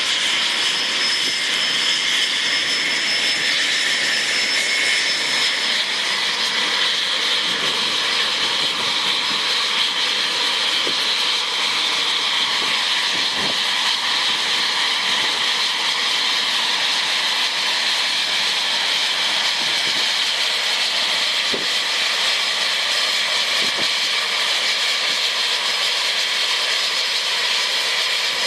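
Cessna CitationJet CJ1's twin Williams FJ44 turbofans running steadily: a high whine over a constant jet rush.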